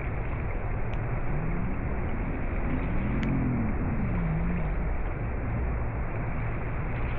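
A motor hum under a steady rushing noise; the motor's pitch rises and then falls over a few seconds in the middle.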